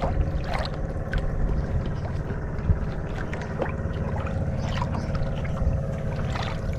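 A boat out on the water: a steady low rumble with a faint steady hum, and scattered small splashes and knocks.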